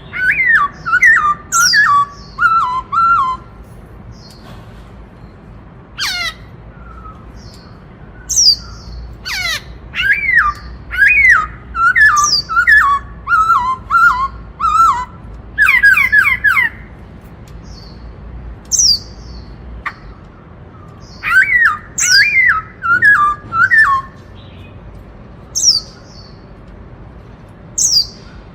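Black-throated laughingthrush singing its 'bắt cô trói cột' song. It gives loud phrases of clear whistled notes that step down in pitch, several phrases in quick runs with pauses between, and short high squeaky notes in the gaps.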